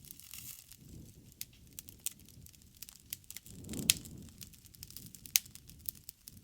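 Wood bonfire crackling, with irregular sharp pops over the low rush of the flames; the flames swell just before the four-second mark, where the loudest pop comes, and another strong pop follows over a second later.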